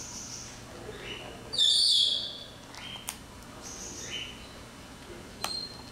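Parrot calls: short chirps repeating every second or so, and one loud, harsh squawk about two seconds in.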